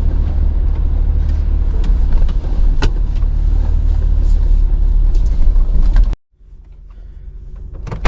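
Steady low rumble of a car, with scattered clicks, that cuts off abruptly about six seconds in.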